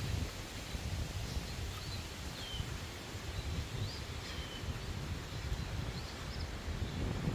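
Scattered brief bird chirps, a short high note every second or two, some falling in pitch, over a steady low rumble.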